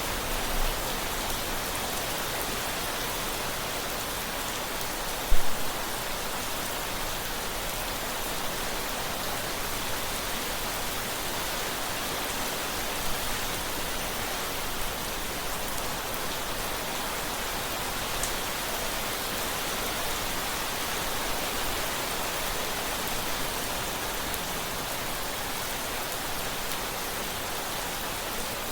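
Steady, heavy rain falling on a surface: a constant dense patter. One brief loud thump about five seconds in.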